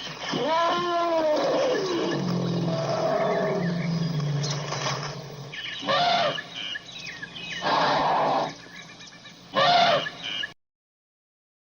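Animal calls: first a drawn-out call that rises and falls in pitch, then a low rumble and several shorter calls. The sound cuts off suddenly about ten and a half seconds in.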